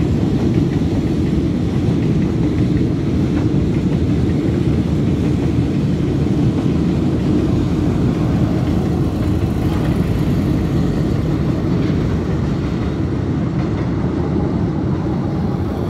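Freight train of container flatcars rolling past, a steady low rumble of the wagons.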